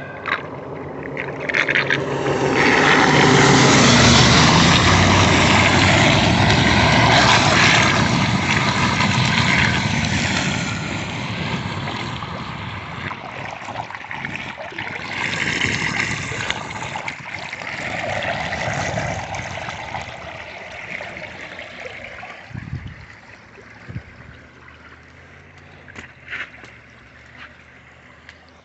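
Floodwater rushing and gurgling, swelling loud for several seconds early on and then fading, with two smaller swells later and a few sharp knocks near the end.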